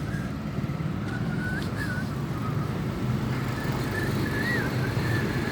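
Steady rumble of road traffic, with a faint wavering high whistle drifting up and down over it.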